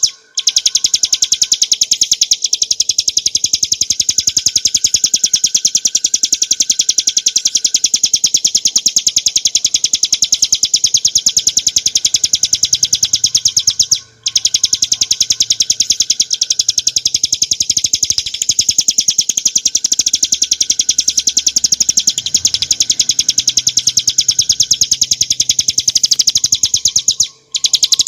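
Ciblek gunung (bar-winged prinia, Prinia familiaris) singing a continuous, very rapid high-pitched rattling trill of closely repeated notes, breaking off twice for a moment, about halfway and near the end.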